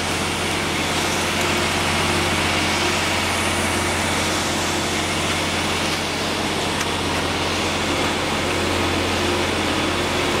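Concrete pump truck running steadily while it pumps concrete through the hose, a constant low engine hum under a loud even mechanical noise.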